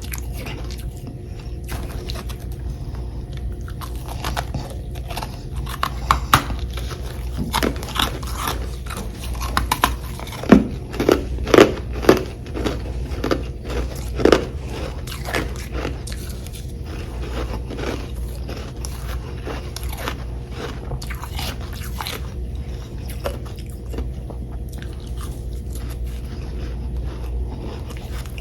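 A person biting and chewing chunks of humidifier frost, with crisp crunches throughout that come loudest and thickest in the middle stretch. A steady low hum runs underneath.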